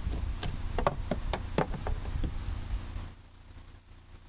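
A handful of sharp knocks and clicks as a car hood with worn-out gas struts is lifted and propped up by hand, over a low rumble that drops away about three seconds in.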